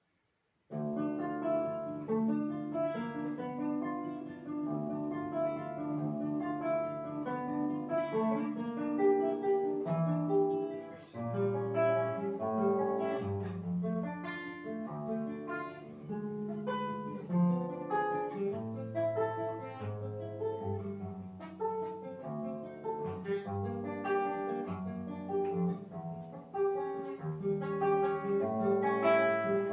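Solo plucked string instrument playing a slow piece of chords and melody over a bass line, starting about a second in.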